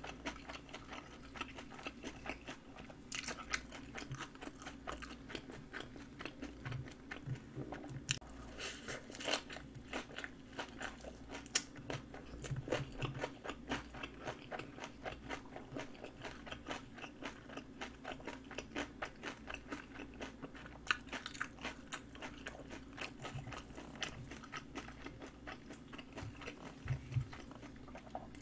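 A person chewing and biting napa cabbage kimchi. It makes a dense, continuous run of small crisp clicks.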